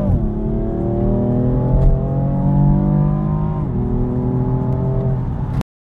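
Car engine heard from inside the cabin while accelerating through the gears. Its pitch drops at an upshift right at the start, climbs steadily, drops sharply at another upshift about three and a half seconds in, then climbs again. The sound cuts off abruptly shortly before the end.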